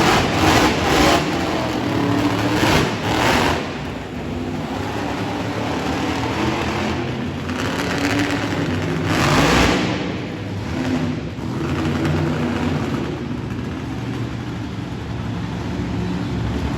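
Monster truck engine revving hard in repeated bursts, with lower running between them; the loudest bursts come in the first few seconds and again about seven and nine seconds in.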